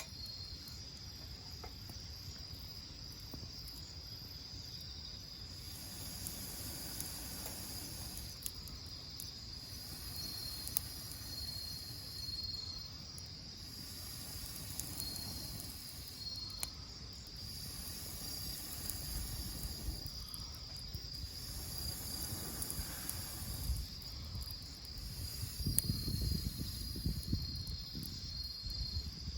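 Insects chirping: a steady high-pitched trill with repeated short chirps over it. A few faint clicks are scattered through it, and a low rumble swells near the end.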